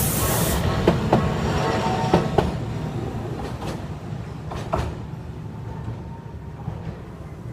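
Tokyu Setagaya Line train passing over a level crossing, its wheels clicking in pairs over rail joints. The running sound fades steadily as it moves away.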